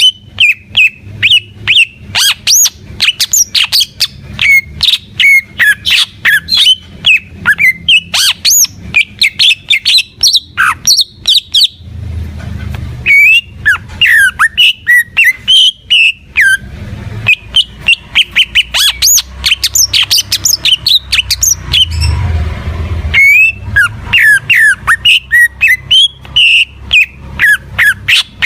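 Green leafbird (cucak ijo) in full song: a fast, varied run of loud whistled notes and chirps, with short breaks about twelve and twenty-two seconds in.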